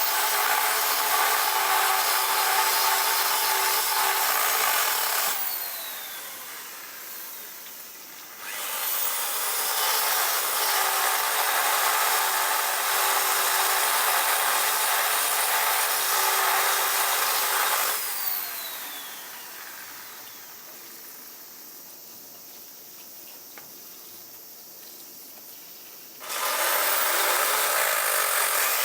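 Electric power tool run in three long spells, a steady rushing whir that winds down with a falling whine each time it is switched off.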